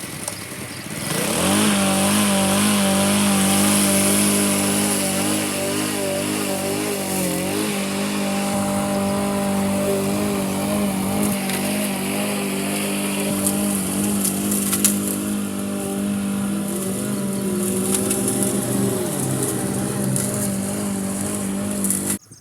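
Honda HRX217 walk-behind lawnmower engine starting and spinning up over about a second, then running steadily, before cutting off suddenly near the end.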